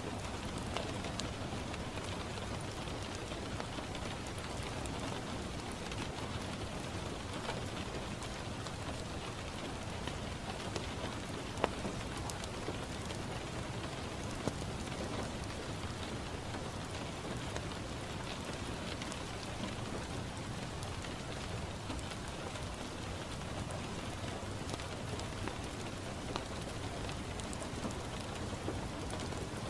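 Steady rain pattering on a window pane, with a few sharp pops from a crackling wood fire in a fireplace, the loudest about twelve seconds in.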